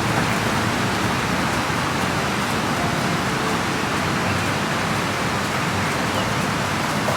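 Steady rushing outdoor noise with no clear individual sounds, such as strong wind or a nearby river gives.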